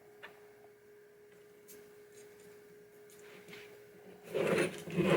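A faint steady hum with a few light clicks of small parts being handled. Near the end, a louder burst of handling noise starts as the metal plate is fitted.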